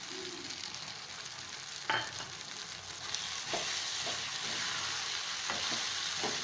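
Pepper chicken frying nearly dry in oil in a pan, sizzling steadily while being stirred, with a utensil knocking against the pan several times; the loudest knock comes about two seconds in. The sizzle gets louder about three seconds in.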